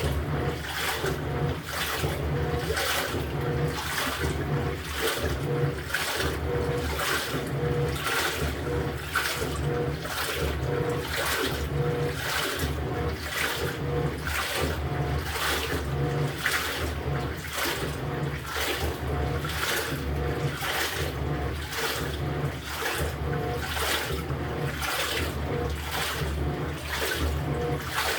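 LG top-loading pulsator washing machine in its wash phase: the pulsator agitates the laundry back and forth, sloshing the water in an even swish a little more than once a second over a steady motor hum.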